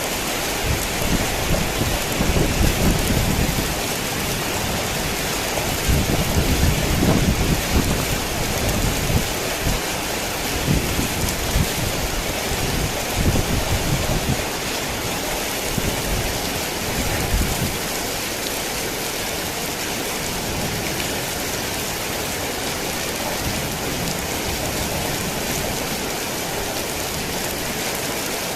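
Heavy rain falling steadily, with thunder rumbling low several times through the first half and then dying away.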